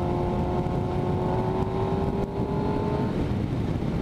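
Motorcycle riding in traffic with wind rumble on the microphone. An engine note holds steady, rising slightly in pitch, then drops away about three seconds in.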